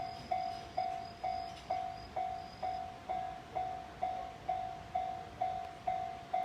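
Railway level-crossing warning bell ringing: a single-pitched ding repeated evenly, a little over twice a second, the signal that a train is approaching.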